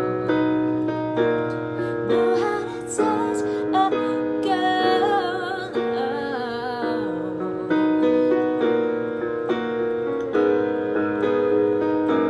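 Piano ballad accompaniment on keyboard, held chords, with a woman's voice singing wordless runs and held notes with vibrato over it through the middle.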